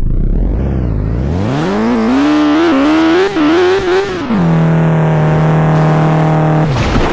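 Motorcycle engine revving: its pitch climbs and wavers for a few seconds, then drops to a steady lower note and cuts off abruptly near the end.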